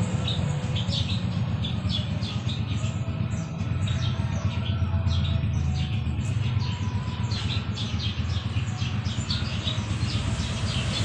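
Small birds chirping, a quick irregular run of short high calls over a steady low rumble.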